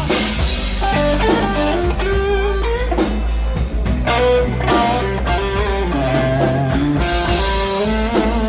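Live blues band playing: an electric guitar plays a bending single-note lead line over bass and drums, with steady cymbal strokes.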